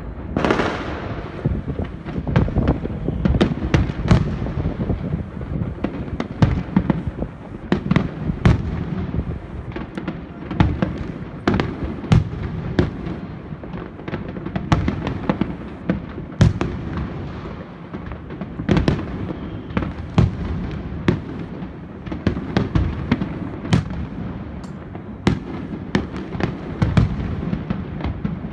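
A fireworks display going off continuously. Many sharp bangs and cracks come at irregular intervals, several a second, over a steady rumble of shell bursts.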